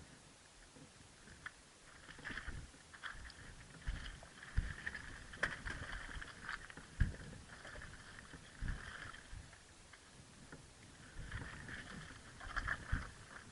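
Irregular knocks, thumps and crunches of a motorcycle's tyres and suspension rolling over loose, baseball-sized rocks on a steep descent. No engine is heard running.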